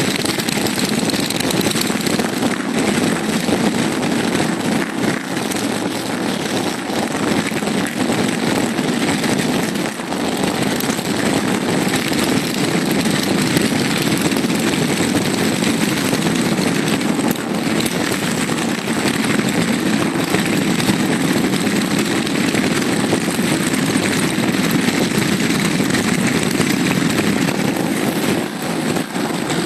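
A large group of motorcycles running together, many engines idling and revving at once in a dense, steady mass of sound.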